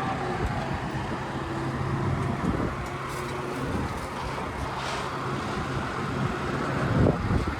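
Vehicle engines running at idle, a steady low hum, with a brief louder passage about seven seconds in.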